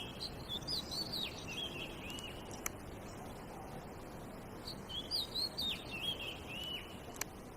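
Oriental magpie-robin singing: two runs of clear whistled notes that glide up and down, one near the start and another about five seconds in, over a steady background hiss. Two short sharp clicks are also heard.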